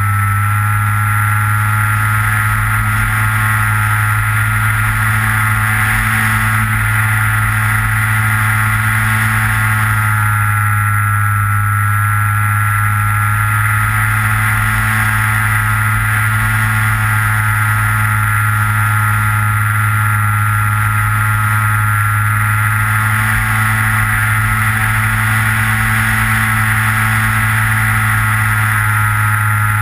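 Steady whine of the Skywalker model plane's electric motor and propeller in flight, heard through the onboard GoPro, with a strong low hum under a high tone that wavers slightly in pitch as the throttle and gusty wind load change.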